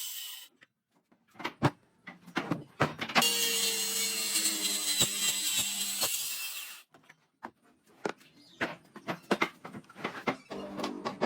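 Woodworking sounds: a few sharp knocks of wood, then a power tool running steadily for about three and a half seconds and stopping abruptly, followed by a run of irregular knocks and taps on timber.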